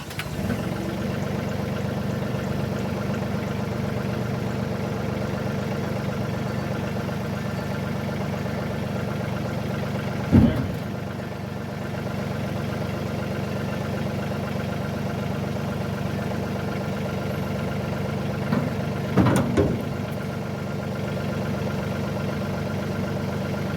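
A vehicle engine starting and then idling steadily, with two brief louder knocks, one about ten seconds in and another near nineteen seconds.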